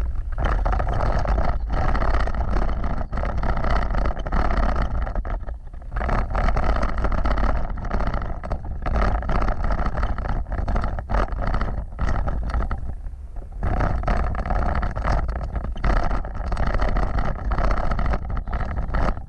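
Off-road vehicle driving over a rough trail: a steady low rumble with frequent knocks and rattles.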